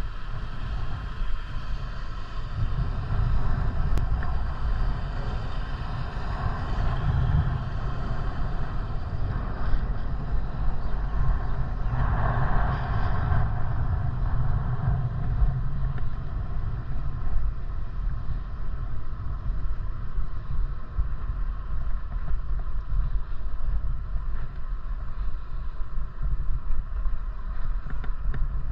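Wind rumbling on the microphone of a moving bicycle, steady and low, with a brief swell of higher noise about twelve seconds in.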